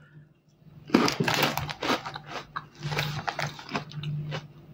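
Crunchy cheese puffs being bitten and chewed in irregular crisp crunches. The chewing starts about a second in and goes on with a short pause in the middle.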